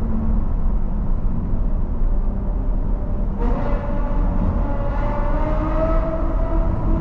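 Ferrari V12 engine and exhaust running. About halfway through, the note suddenly gets louder and brighter, then climbs slowly in pitch as the engine builds revs.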